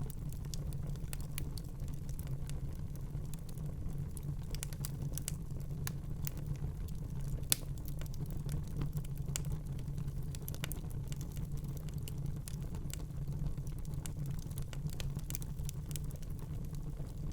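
Wood fire burning in a fireplace: a steady low rumble of flames with frequent small irregular crackles and pops, one sharper pop about halfway through.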